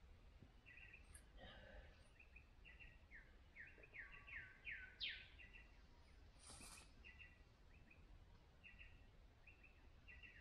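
Faint birdsong: a bird repeating short falling notes in groups, quickening into a fast run that ends in one upward sweep, then going on in shorter groups. A brief sharp noise cuts in about two-thirds of the way through.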